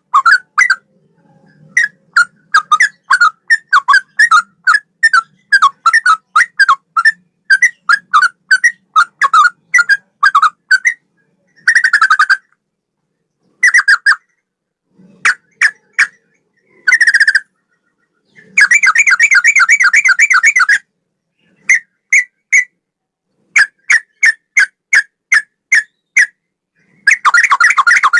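Sooty-headed bulbul (trucukan) singing in the cucak rowo style. It gives long runs of short, loud whistled notes, several a second, broken by brief pauses. About two-thirds of the way in there is a dense rapid trill lasting a couple of seconds.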